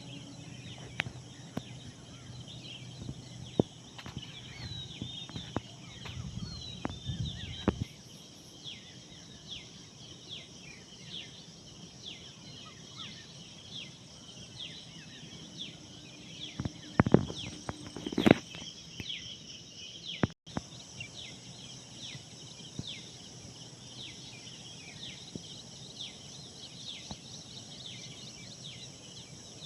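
Many small birds chirping, a steady stream of short calls overlapping one another. A low hum runs under the first quarter, and a few sharp knocks a little past halfway are the loudest sounds.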